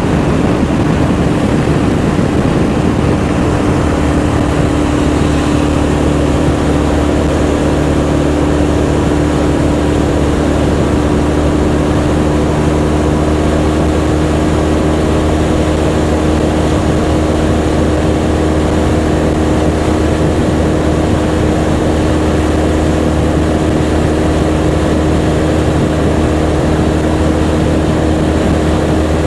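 Motorcycle engine running steadily at an even pitch, with a constant drone and no revving.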